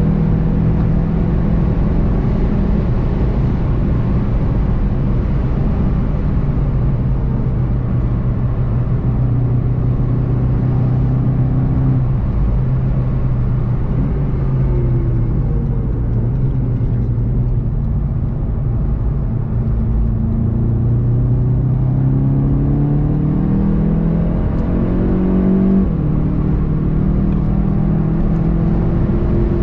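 Volkswagen Golf 7 GTI TCR's turbocharged four-cylinder engine under way at speed, over steady road and wind noise. Its pitch falls about halfway through as the car slows from around 200 km/h, then climbs again under acceleration, with a sudden step down near the end.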